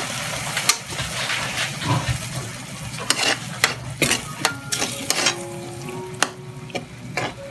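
Clam adobo in a thick sauce sizzling in a wok while a metal spatula stirs it, scraping and clicking against the pan many times. Background music comes in about halfway through.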